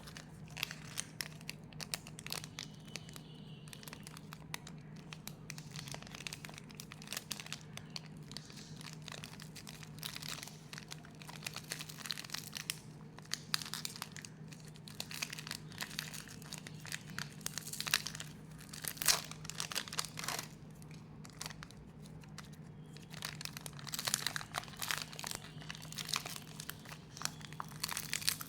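Packaging being crinkled and torn open by hand: a steady run of irregular crackles and rustles with sharper snaps now and then, loudest around the middle.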